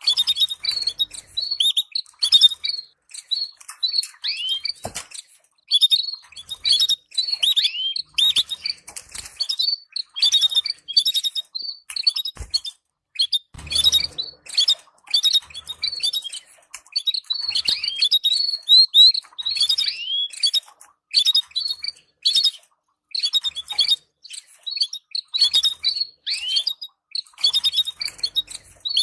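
Canaries chattering: quick runs of short high chirps and downward-sliding notes, broken by brief pauses. This is the soft chatter used to stimulate breeding canary pairs.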